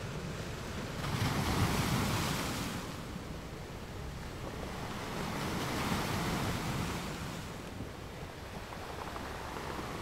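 Ocean surf breaking and washing up a sandy beach, a steady rush of water. One wave swells loudest about a second in and another, softer one follows around the middle.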